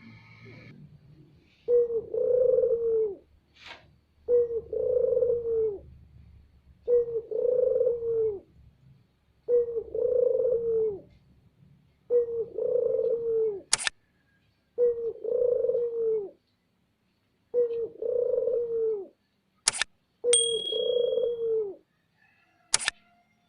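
Puter dove (domestic collared dove) singing its loud coo over and over, eight even phrases about two and a half seconds apart, each a low rolling coo about a second and a half long. A few sharp clicks fall between the later phrases.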